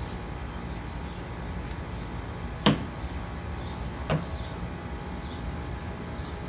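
Two sharp clicks of small metal hydraulic-pump parts being handled, about a second and a half apart, the first louder, over a steady low hum.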